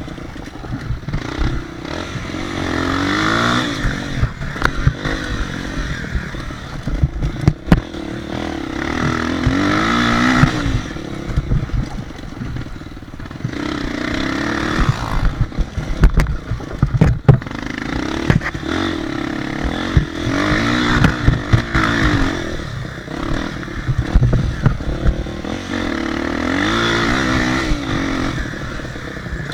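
Motocross motorcycle engine revving up and down, its pitch rising and falling in sweeps every several seconds, with frequent short knocks and low rumble.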